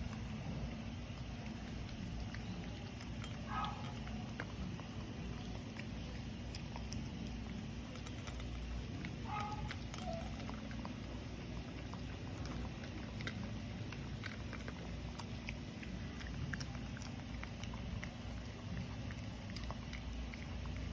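Shih tzu eating from a bowl: scattered small crunches and clicks over a steady low hum. Two short, higher-pitched sounds come about three and a half and nine and a half seconds in.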